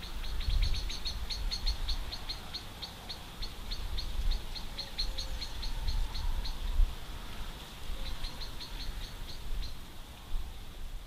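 A small bird singing a long run of quick, high, evenly repeated chirps, about four a second, which breaks off for a moment past the middle and then resumes briefly, over a low outdoor rumble.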